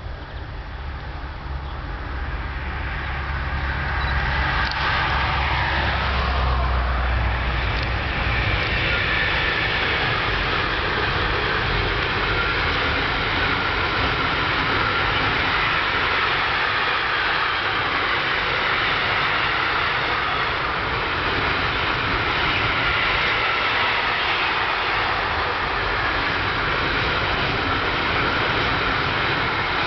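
A Bombardier Traxx electric locomotive hauling a long intermodal freight train draws near with a rising low rumble and passes in the first few seconds, its pitch falling. The loaded pocket wagons then keep up a steady, loud rolling noise of wheels on rail with a high ringing tone.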